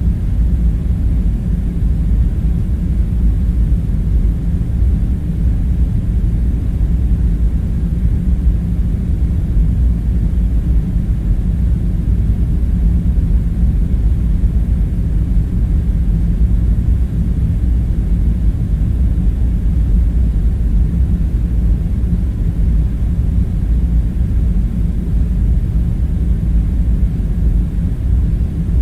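Steady low rumbling hum of a background room drone, with no distinct events.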